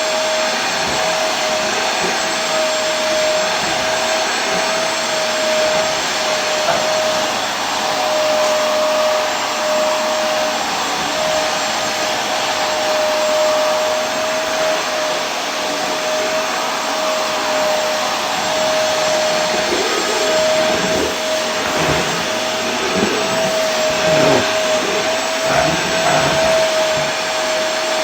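Vacuum cleaner running steadily: a constant rushing of air with a steady motor whine.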